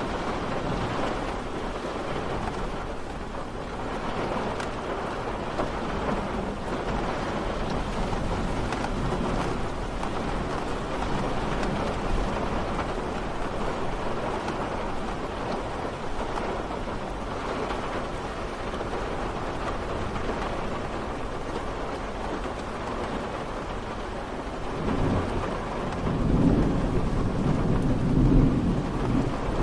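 Steady rain falling, heard as an even hiss. About 25 seconds in, a low rumble of thunder builds and grows louder toward the end.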